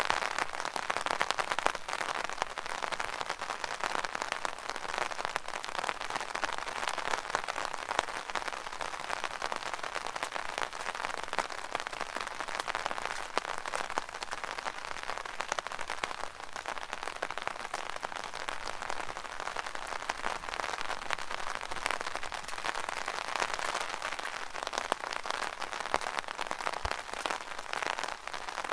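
Rain drumming steadily on an umbrella canopy, a dense patter of drop hits with no let-up.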